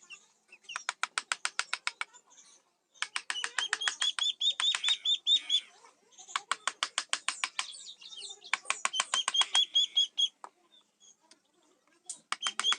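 Runs of quick, sharp taps, about nine a second, in bursts of one to two seconds with short pauses between. Each tap carries a brief high ring: a mallet driving a carving chisel into teak.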